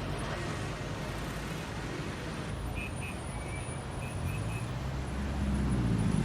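City street traffic: a steady din of vehicles, with a few short high beeps in the middle and an engine getting louder near the end.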